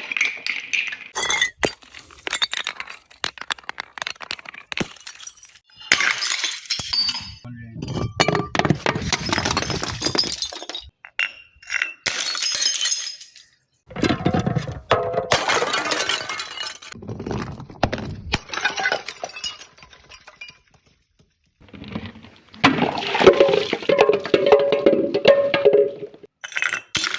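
Glass bottles and jars smashing one after another, each crash followed by shards clinking and scattering, in about half a dozen separate bursts with short pauses between them.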